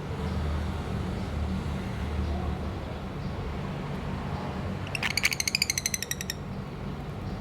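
A lovebird gives a fast chattering trill of about fifteen sharp, high notes lasting just over a second, about five seconds in, over a steady low background rumble.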